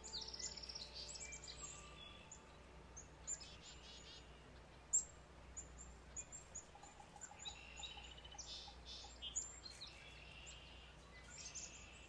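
Faint songbird calls: short high chirps and repeated trills over a light steady hiss, with one louder sharp note about five seconds in.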